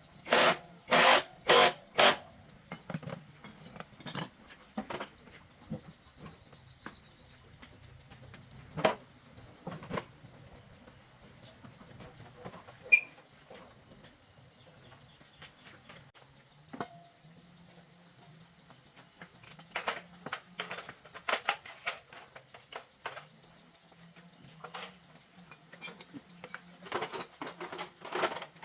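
Steady high-pitched insect drone with scattered clicks and knocks; four loud knocks come in quick succession in the first two seconds.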